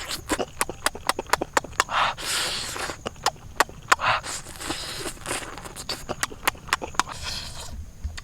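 A person eating close to the microphone: many quick irregular mouth clicks and smacks from chewing, with a few short sniffing breaths in between.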